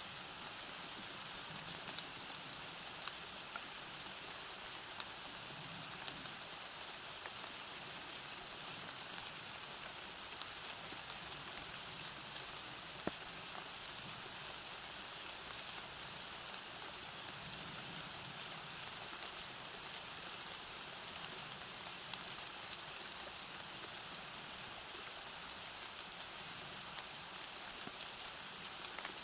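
Steady rain falling, an even hiss with scattered sharper drop ticks. One tick about 13 seconds in is louder than the rest.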